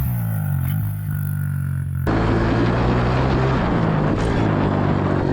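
Dirt bike engine running, its pitch falling as the rider eases off; about two seconds in the sound switches abruptly to a louder engine under a heavy rush of noise.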